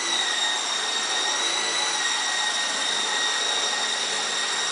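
Venom Beacon coaxial RC helicopter in flight, its electric motors and twin rotors giving a steady high whine at an even pitch.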